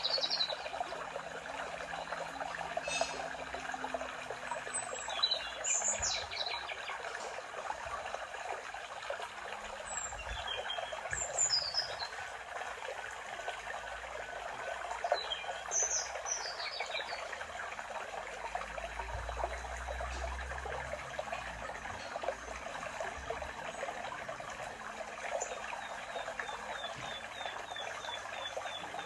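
A stream running steadily while songbirds call on and off over it: short falling whistled phrases come several times, and a fast trill comes near the end.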